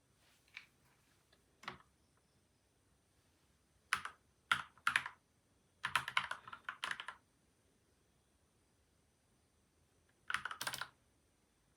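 Typing on a PCL87 mechanical keyboard with linear switches (Gateron milky white and Outemu yellow), lubed and dampened with tape and foam mods. A few light keystrokes, then short bursts of typing about four, six and ten seconds in, with pauses between.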